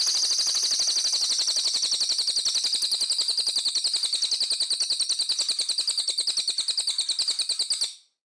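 A songbird's rough, rapid trill of about ten high-pitched notes a second, kept up evenly for about eight seconds and cutting off suddenly near the end: a harsh 'tembakan' burst.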